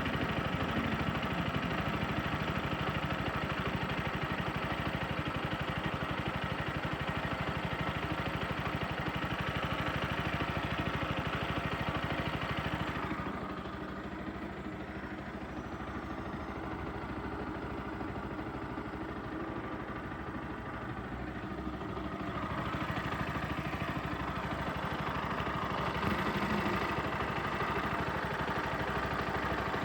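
Bajaj Pulsar NS160 FI motorcycle's single-cylinder engine idling steadily at about 10,700 km on the odometer. Midway, for about ten seconds, the sound turns quieter and duller, then comes back.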